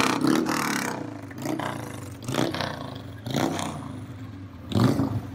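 A vehicle engine revving: one long loud rev at the start, then several short throttle blips about a second apart.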